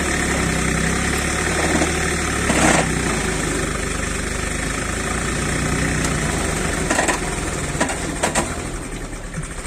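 Tractor diesel engines running steadily, with a few short sharp knocks, one about a third of the way in and a couple near the end.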